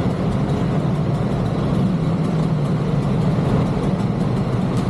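A heavy engine running steadily with a low, even drone.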